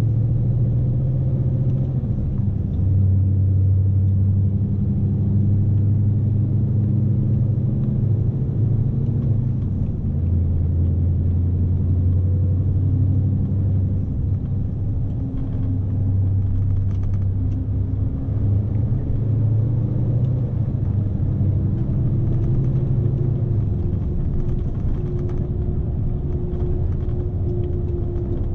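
Scania S520 truck's V8 diesel engine running steadily under load, heard from inside the cab as a low rumble whose pitch shifts a little; a higher whine comes in near the end.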